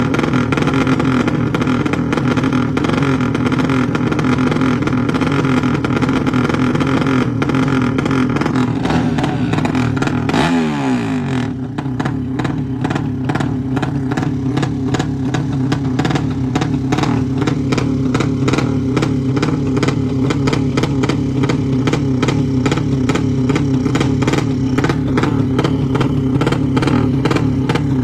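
Tuned racing motorcycle engine running steadily at a fast idle. About ten seconds in its revs drop sharply, and it settles into a lower, lumpier idle with distinct rapid firing pulses.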